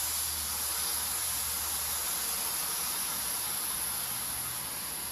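A steady, high-pitched hiss that stops abruptly near the end, followed by a click.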